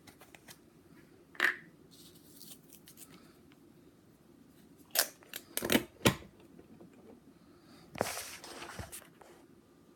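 Plastic coin tube being cracked open and its silver coins handled: a scrape, a cluster of sharp clicks about five seconds in, and a longer scraping slide near the end.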